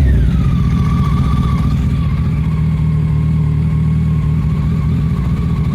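2004 Honda Blackbird's 1137 cc inline-four engine, warmed up, dropping from a rev to a steady idle in the first half second. A faint steady whine sits above the engine note.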